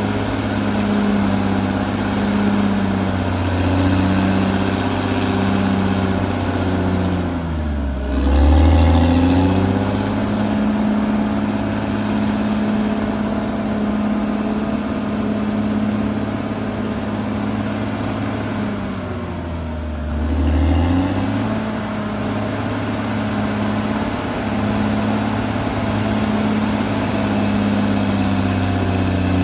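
Caterpillar D6R XL bulldozer's diesel engine running steadily while working, its note dropping and picking back up twice, about 8 and 20 seconds in.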